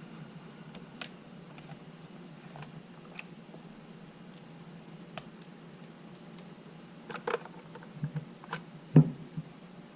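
Scattered light clicks and taps of a camera and its small parts being handled on a workbench, with a short cluster of clicks about seven seconds in and one louder knock near the end.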